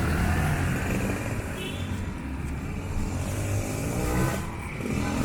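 Street traffic: a motor vehicle engine running, with its pitch rising as it revs about four seconds in.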